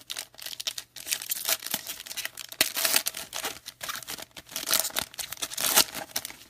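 Plastic-foil trading card pack wrapper being crinkled and torn open by hand, a dense, irregular crackling that runs on without a break.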